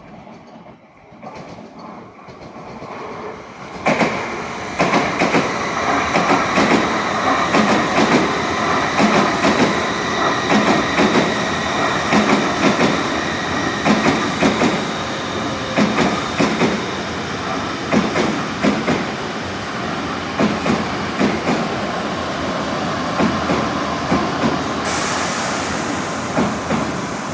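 Tokaido Shinkansen bullet train passing through without stopping. A rumble builds over the first few seconds, then a sudden loud rush arrives about four seconds in, carrying a rapid rhythmic clatter of wheels that lasts to the end. A high hiss comes in near the end.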